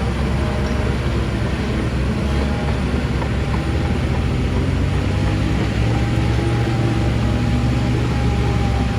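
Heavy diesel engine of an earthmoving machine running steadily under load, with a thin steady whine above the engine note.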